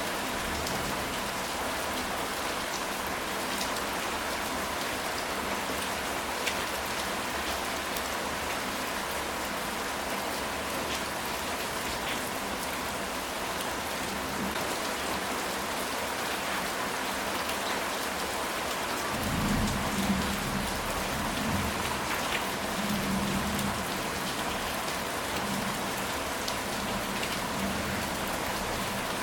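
Steady rain falling on a ceramic tile roof, with scattered drop ticks. About two-thirds of the way through, a low thunder rumble rolls in, swelling and fading in waves for several seconds.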